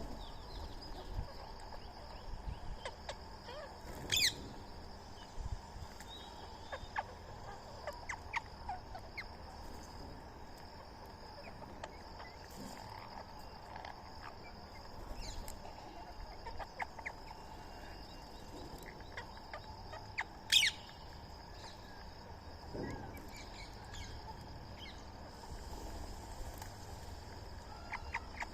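Birds calling: scattered short chirps throughout, with two loud, sharp calls, one about four seconds in and another about twenty seconds in, over a steady high-pitched hum.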